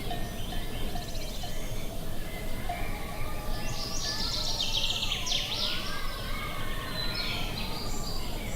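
Birds singing and chirping over a steady low rush of wind, with a burst of fast, bright trilling song in the middle.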